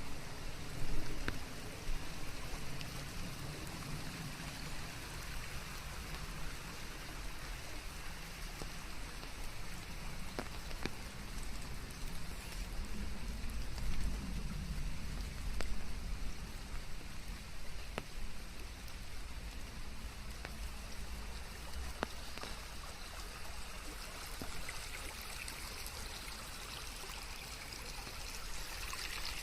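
Steady rain falling on leaves, a dense even patter blended with white noise. Now and then a single louder drop ticks out above it.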